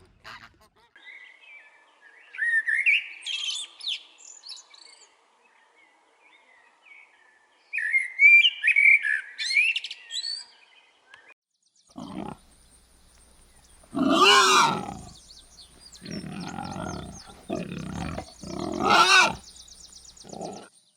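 Animal calls: two bouts of warbling, chirping bird calls, then a series of deep, loud roars from a large animal, the loudest two about five seconds apart.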